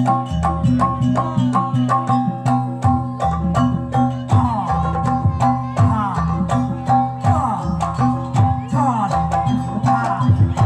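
Javanese jaranan gamelan music: quick, even percussion strikes over steady ringing metallophone tones and a low drone, with a sliding melodic line joining in about four seconds in.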